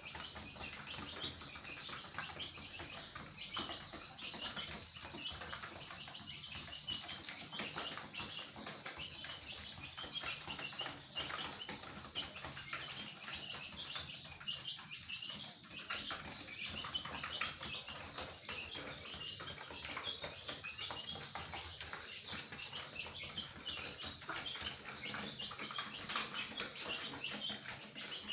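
Many birds chirping continuously, a dense mass of short, high overlapping chirps.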